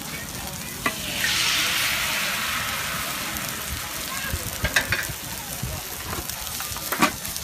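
Food sizzling in a hot pan. About a second in, the sizzle surges loudly, as when something new hits the hot surface, then slowly dies back. A few sharp utensil clicks sound against the pan.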